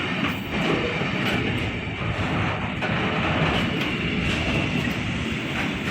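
Train passing through the station: a steady rumble of wheels on rail with a few faint clicks.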